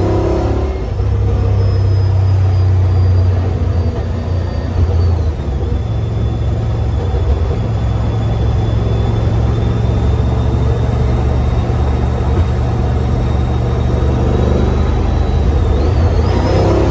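GM LS V8 in a 1972 Ford XY Falcon cruising on the road, a deep, thumpy, steady exhaust note, heard from inside the car. A faint high whine runs over it, dropping in pitch about five seconds in.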